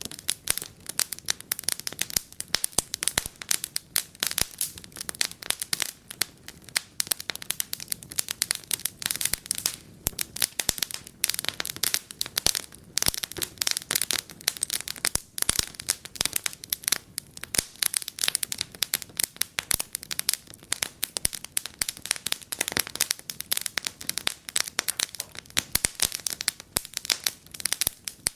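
Wood fire crackling and popping in a fireplace: a dense, irregular stream of sharp snaps over a soft hiss of burning.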